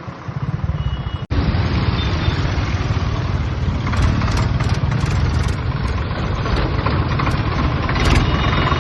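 Swaraj tractor's diesel engine running steadily, with a sudden brief break about a second in, after which it is louder.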